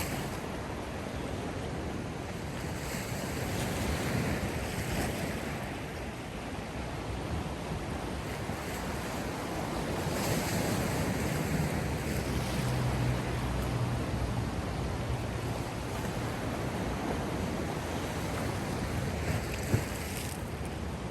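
Sea waves breaking and washing in, swelling and easing every few seconds, with some wind noise on the microphone. A faint low hum runs for a few seconds in the middle, and there is a single sharp click near the end.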